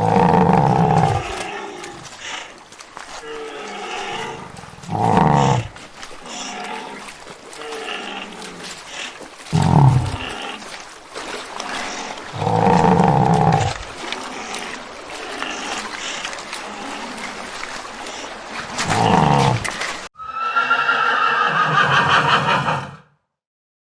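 An animal calling repeatedly: about five loud, pitched calls several seconds apart. About 20 seconds in, a different, higher-pitched call follows for a few seconds.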